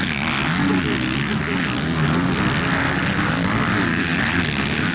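Several motocross bikes' engines running and revving on the track, their pitches rising and falling as the riders work the throttles.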